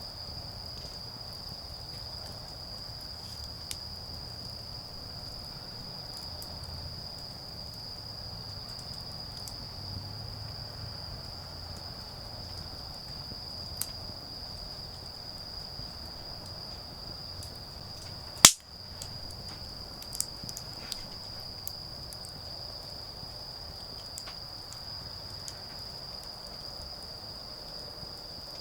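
Autumn insects trilling in one steady, unbroken high-pitched tone, over a wood fire crackling with scattered sharp snaps and one loud pop about two-thirds of the way through.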